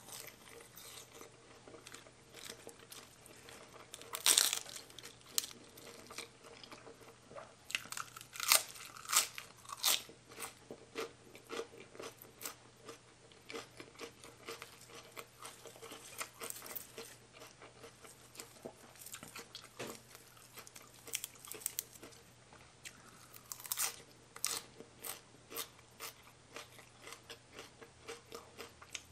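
A person chewing a mouthful of food close to the microphone, with crisp crunches at an irregular pace, the loudest a few seconds in and again around the middle.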